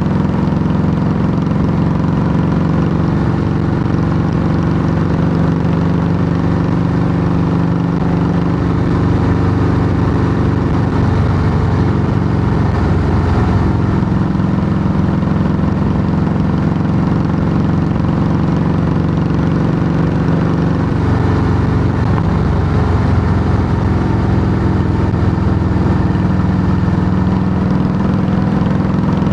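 A 2008 Harley-Davidson Softail Heritage Classic's air-cooled V-twin runs steadily through Samson fishtail true-dual exhaust pipes.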